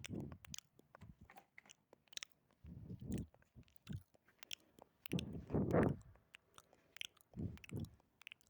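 Close-miked ASMR mouth sounds: scattered sharp clicks of the lips and tongue, with a few longer low bursts every couple of seconds.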